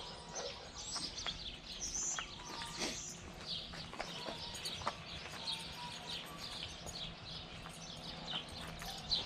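Birds chirping outdoors: many short, high calls over one another. A few footsteps on pavement are heard with them.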